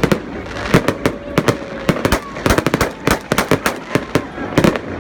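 Fireworks going off in quick succession: a dense, irregular string of sharp bangs and cracks, several a second, with no pause.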